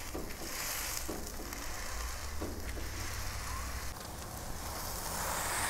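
Smashed breakfast sausage patty and bacon sizzling on the hot ceramic cooktop of a flat-top griddle, a steady frying hiss. A few soft rustles and scrapes come from the parchment paper and spatula as the paper is peeled off the patty.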